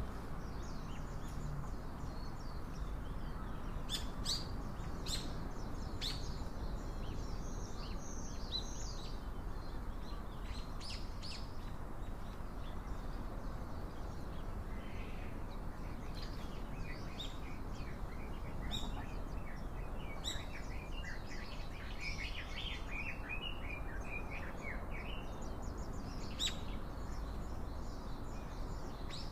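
Small songbirds chirping and calling on and off, with a run of rapid twittering about twenty seconds in, over steady low background noise.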